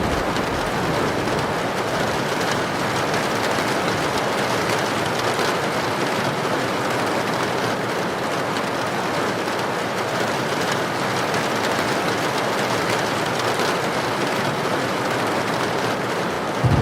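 Heavy rain pouring steadily, a dense even hiss with no gusts or breaks.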